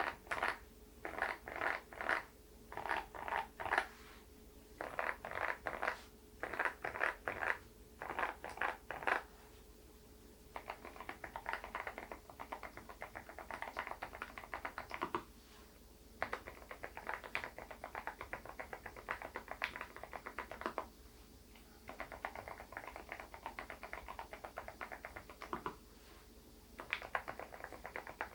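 Low-noise Moksae switches on an SPM PL108W full-size mechanical keyboard being typed on: first several short clusters of three or four key presses, then from about ten seconds in long runs of fast typing broken by brief pauses.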